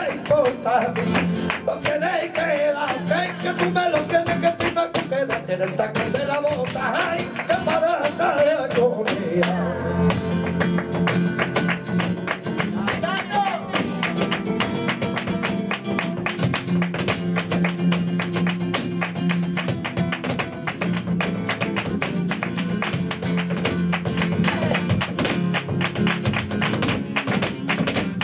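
Flamenco alegrías on guitar, with a wavering, drawn-out sung line over it for about the first nine seconds. After that the guitar carries on under dense, rapid percussive clicks.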